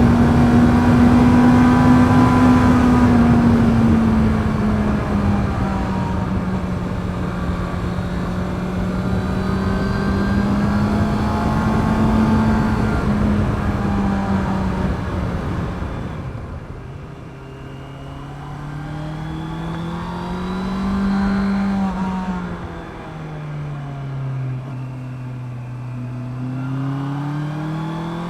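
Honda CB650R's inline-four engine through its stock exhaust while riding: it holds a steady pitch over rushing wind for the first half. About 16 s in, the revs drop and the wind fades as the bike slows, then the engine pitch rises and falls through the gears.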